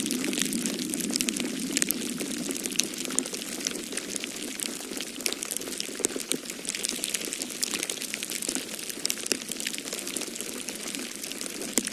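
Wood fire crackling in a fireplace: many small, irregular snaps and pops over a steady low rush of snowstorm wind.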